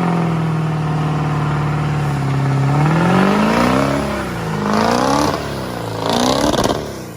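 Vehicle engine running steadily, then revved three times in quick succession, each rev rising and falling in pitch, before it fades near the end.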